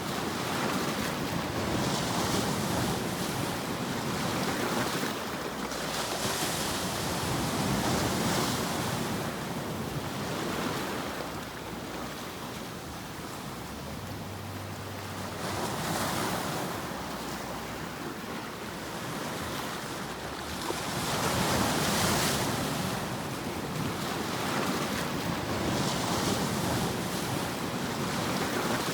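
Steady rushing hiss of a white-noise sleep track that swells and fades every few seconds, the way surf rolls in and out.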